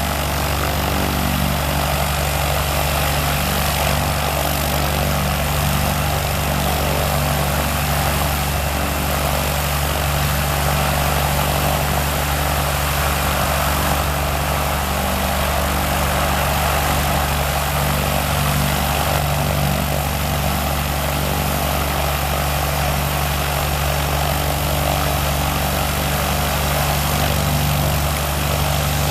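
Van's RV-10 single-engine light aircraft's piston engine and propeller running steadily, with a strong low hum under a broad rushing noise.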